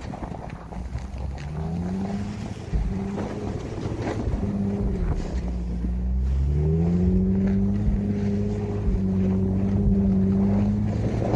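Infiniti FX35's 3.5-litre V6 pulling the car through snow, its pitch climbing twice as it speeds up and holding steady in between. Wind buffets the microphone.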